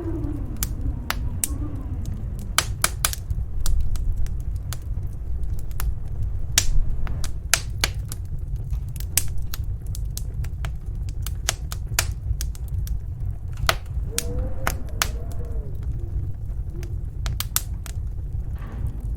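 Wood fire crackling with sharp, irregular pops over a steady low rumble of storm wind. A faint wind howl rises and falls at the start and again about two-thirds of the way through.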